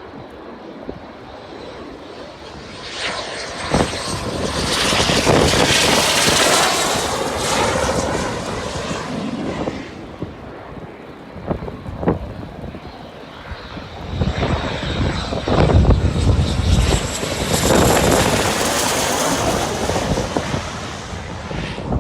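BAE Hawk jet trainers passing low on the landing approach, in two loud passes, each swelling and fading over several seconds with an engine whine that shifts in pitch as it goes by.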